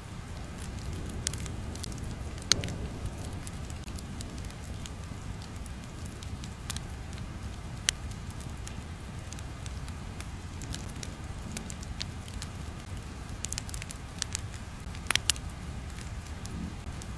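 Steady low rumble with scattered sharp crackles and pops, typical of a crackling-fire ambience track. The loudest pops come about 2.5 s in, about 8 s in and a pair about 15 s in.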